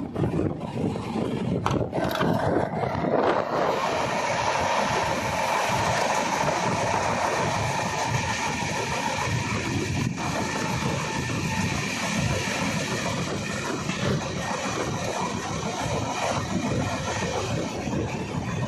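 Train running on the rails, a steady rumble and rail noise with no breaks.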